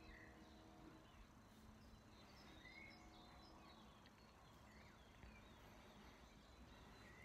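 Near silence, with faint bird chirps scattered through it over a low, steady background hum.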